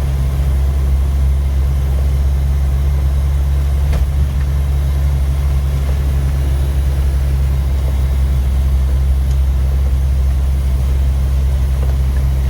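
Cabin noise of a 1988 Jeep Wrangler YJ driving: a steady, loud low engine and road drone, which the driver calls noisy.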